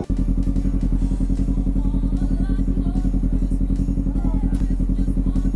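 Motorcycle engine running at a steady speed with a rapid, even pulse, after a brief drop-out right at the start.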